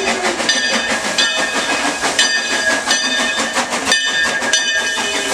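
Steam locomotive No. 43 of the Frisco Silver Dollar Line getting under way: steam hissing under a metallic ringing that repeats about twice a second, typical of the locomotive's bell.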